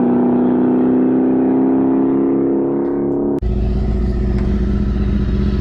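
Car engine and exhaust running with a steady drone whose pitch eases slightly down, then an abrupt cut about three and a half seconds in to a deeper, lower-pitched engine drone.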